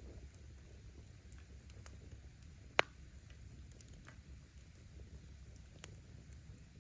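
Firewood crackling in a bonfire over a low steady rumble of flame, with scattered faint pops and one sharp, loud crack of bursting wood about three seconds in.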